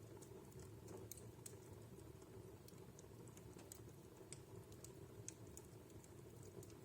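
Wood fire in a fireplace crackling faintly: scattered, irregular sharp ticks and pops over a soft, steady low background noise.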